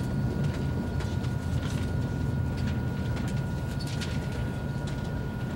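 Interior running noise of a first-generation ICE high-speed train: a steady low rumble with scattered light clicks and rattles, and a faint steady whine above it.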